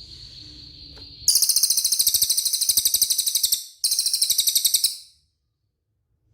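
Cililin songbird singing: a thin high whistle held for about a second, then a loud, fast rattling trill in two bursts with a brief break between them.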